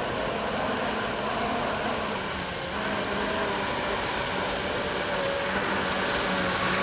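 Electric jet kayak running under way: a steady motor whine over a rush of water, growing slightly louder toward the end.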